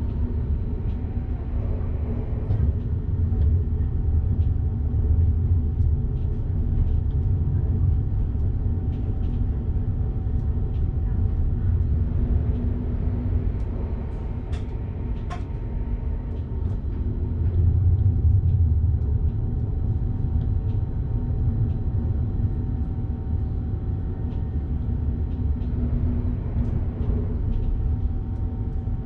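Train running along the line, heard from the driver's cab: a steady low rumble with scattered clicks and a faint whine that fades out and comes back.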